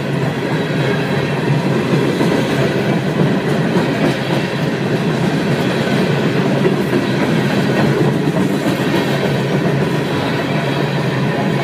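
Long train's cars rolling past, a steady rumble of wheels on the rails.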